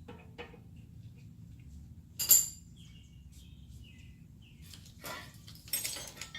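Metal tools and brake parts clinking as they are handled, the loudest a sharp clink about two seconds in, with a few more near the end. Faint bird chirps in the background.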